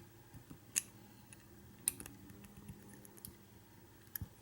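A few light, sharp clicks and taps, about a second apart or more, from handling a padlock and small tools while lubricating its frozen pins.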